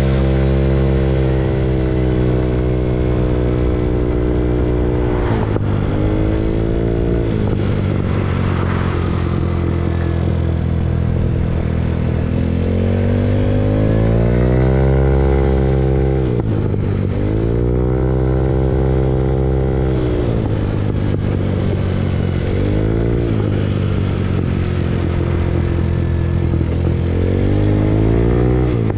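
Moped engine under way as it is ridden, its pitch climbing as the throttle opens and dropping back as it closes, several times over, with wind rumble on the microphone.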